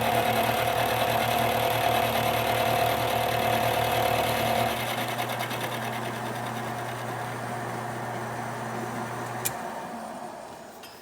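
Index Model 40H milling machine running: a steady motor and spindle hum with a higher tone that stops about five seconds in, leaving a quieter run. Near the end a click, after which the machine winds down and fades out as it is switched off.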